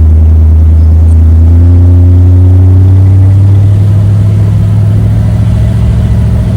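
1956 Ford Thunderbird's V8 engine and exhaust pulling under acceleration, with a throaty note. The pitch rises over about two seconds, then settles into a steady low drone.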